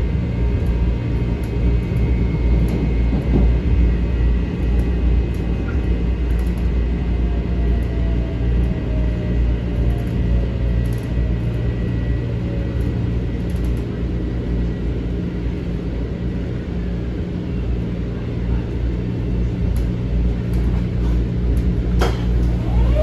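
Interior of a Metro-North M7 electric railcar standing at a station: a steady low hum and rumble from its onboard equipment, with a faint whine falling slowly in pitch midway through. Near the end there is a sharp click, and a steady tone starts.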